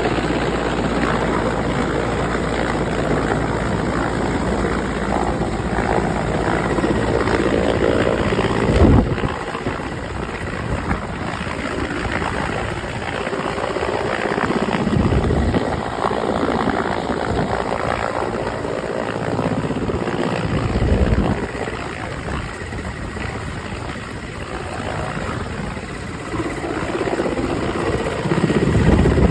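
Helicopter running with steady rotor and engine noise, broken by a few brief low surges every several seconds.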